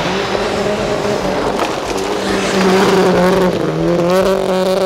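Turbocharged four-cylinder rally-car engine pulling hard on snow, held at a steady pitch, then dipping briefly about three and a half seconds in and climbing again.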